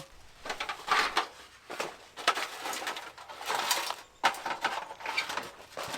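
A lightweight titanium tent stove being unpacked and handled: irregular rustling with light knocks and clatter.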